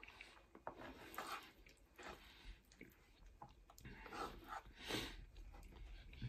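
Faint, wet chewing of a mouthful of cheesy pasta by a toothless eater gumming the food, with a few soft clicks of a spoon scooping from the pan.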